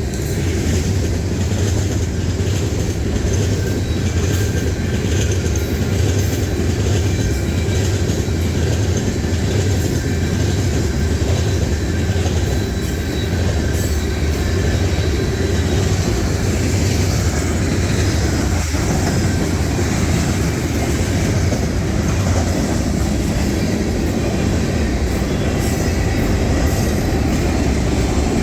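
Train rolling past at close range: a steady loud rumble of rail cars with wheels clicking over rail joints and thin wheel squeal.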